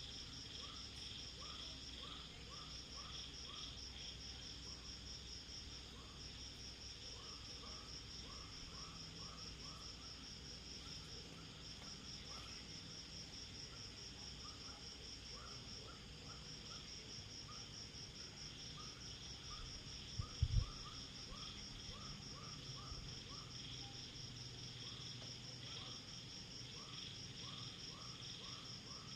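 Night insects chirping: a steady, fast-pulsed high trill with brief gaps, over a lower series of short chirps in quick groups. A short low thump about 20 seconds in.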